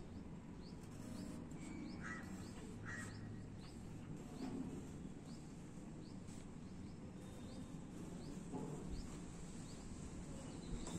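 Quiet background with a small bird chirping over and over: short rising chirps about once a second.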